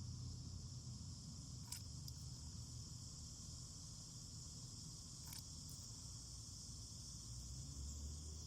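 Cicada chorus: a steady high-pitched buzzing drone that holds level throughout, over a low steady hum, with a few faint clicks.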